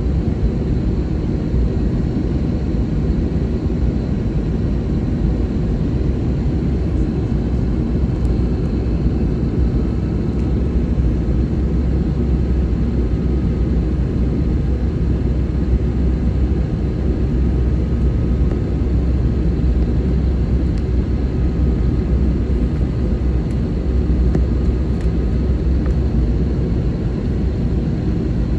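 Steady low rumble of engine and airflow noise inside the cabin of an Airbus A321neo in flight, with no change in level.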